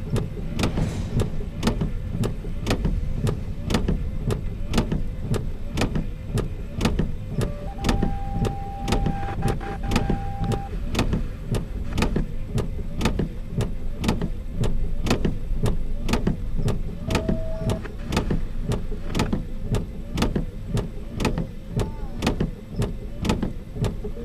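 Freight train rolling past with a steady low rumble and wheels clicking over rail joints at an even pace, about two to three clicks a second.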